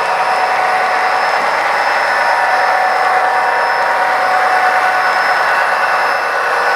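Model train running on the layout, a steady whir with several held tones over it.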